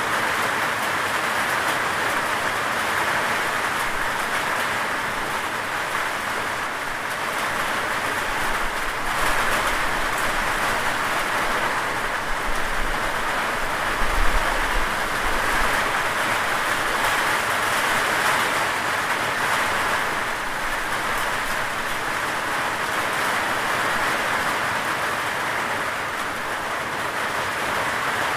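Steady heavy rain falling, an even rushing hiss of drops without a break. A low rumble swells underneath for several seconds around the middle.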